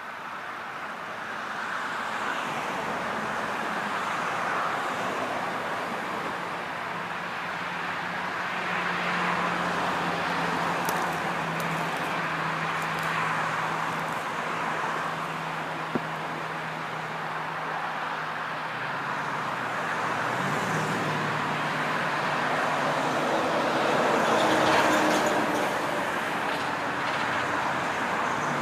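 A car driving along a road: a steady rush of tyre and road noise over a low engine hum that drops and then rises in pitch about halfway through.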